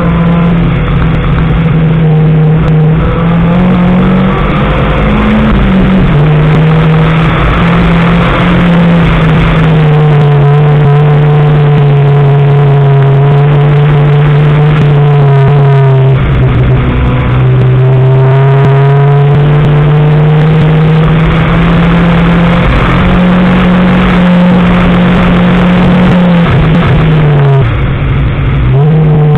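Mazda 3 race car's engine at full effort on a hillclimb run, heard from inside the car. It holds high revs and changes pitch three times: a dip about six seconds in, a drop and slow climb around the middle, and a sharp drop and recovery near the end.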